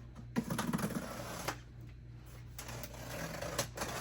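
Cardboard scraping and rattling as the top of a large shipping box is worked off, with a fast run of fine rasping ticks in the first second and a half, then quieter rubbing and a couple of sharper clicks near the end.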